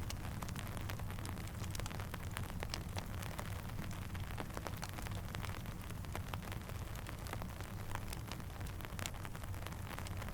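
Steady rain mixed with a crackling campfire: a constant hiss full of small sharp ticks and pops over a low rumble.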